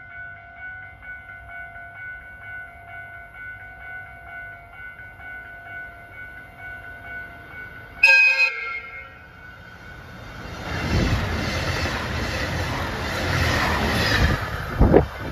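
A pulsing ringing tone repeats for about eight seconds, then a train horn gives one short blast. A KiHa 283 series diesel express train approaches and passes, its engine and wheel noise growing loud, with a sharp bang near the end.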